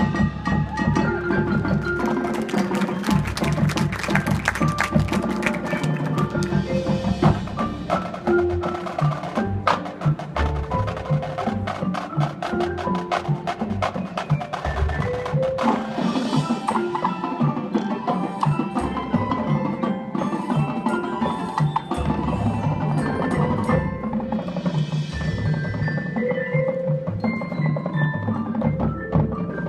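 High school marching band playing its show music, with struck percussion prominent: many sharp drum and mallet strikes over sustained pitched notes.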